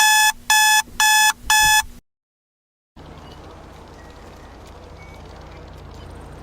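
Electronic alarm beeping: four loud, evenly spaced beeps, about two a second, that stop abruptly about two seconds in. After a second of dead silence, a low, steady rumble starts and slowly grows louder.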